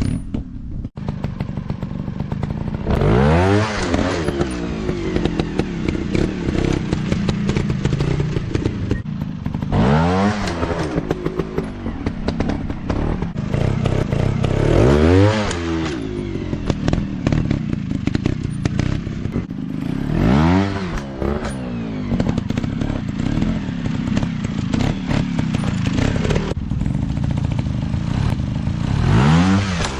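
Dirt bike engine running continuously with a rough, crackly exhaust. It is revved about five times, each rev rising and falling in pitch within a second or two, a few seconds apart.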